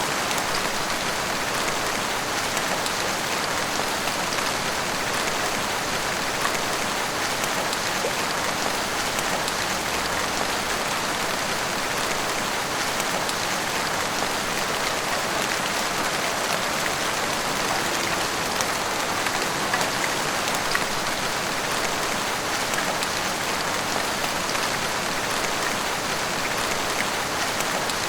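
Heavy rain pouring steadily: an even hiss with scattered taps of individual drops.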